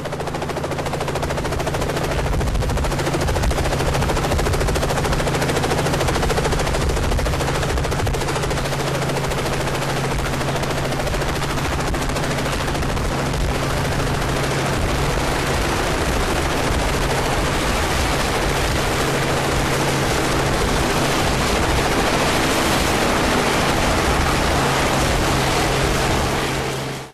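Helicopter running close by: a loud, steady, rapid rotor chop over engine noise. It cuts off suddenly at the end.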